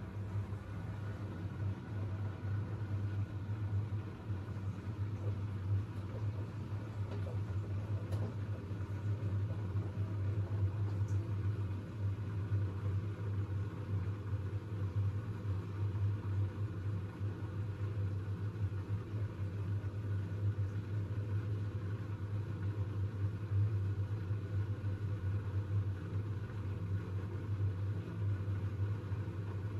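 Siemens iQ700 WG56B2090 front-loading washing machine running through its wash cycle, a steady low hum with a rushing noise over it.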